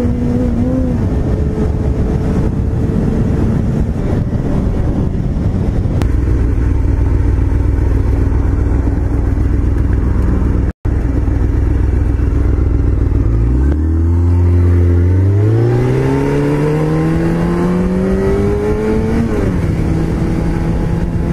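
Motorcycle engine running under way with heavy wind rush, then accelerating hard about two-thirds of the way in: the engine pitch climbs for about five seconds and drops sharply at an upshift.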